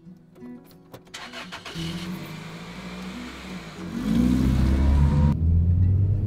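Car engine starting and then revving up, growing loud about four seconds in with a rising pitch as the car pulls away, heard from inside the cabin.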